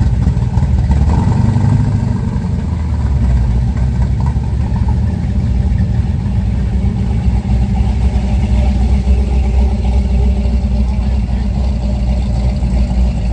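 A vehicle engine running steadily at idle, its sound mostly low and even.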